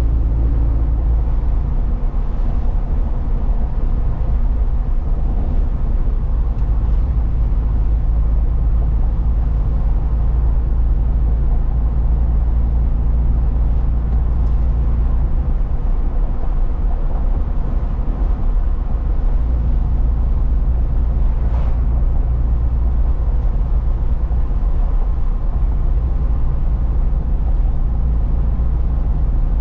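A truck driving at a steady pace: its engine and tyre-on-road noise form a continuous low drone with no change in speed.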